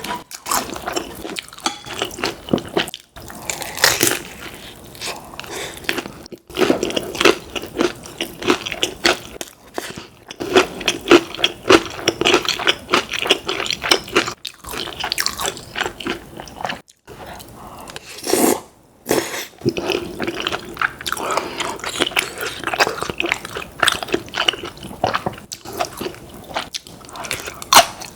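Close-miked eating sounds: repeated crunching bites and wet chewing of food, with brief sharp gaps where the sound drops out.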